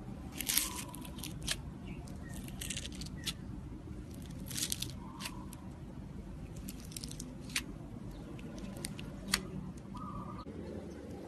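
Slime being squeezed and worked by hand, giving irregular clusters of crackles and pops over a steady low hum.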